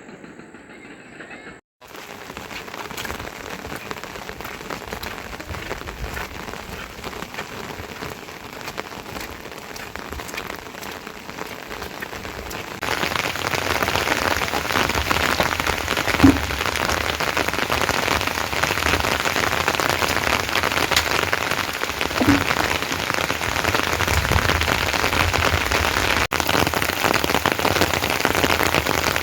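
Steady rain falling, heard as a dense hiss that gets louder and heavier about halfway through, with a couple of dull knocks.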